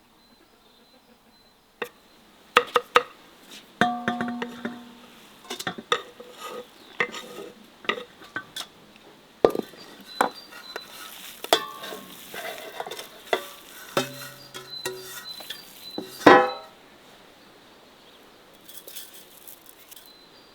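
Metal cookware and utensils being handled: a run of irregular clinks and knocks, some ringing briefly, with the loudest knock about sixteen seconds in.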